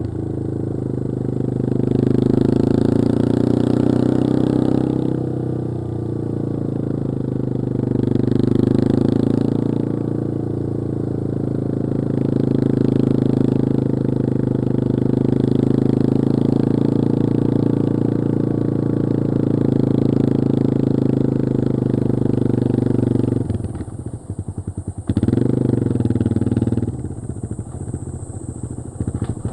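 Yamaha XT225 Serow's single-cylinder four-stroke engine running under way, its pitch rising and easing with the throttle. About three-quarters of the way through it twice drops to low revs, where the separate firing strokes can be heard, before picking up again.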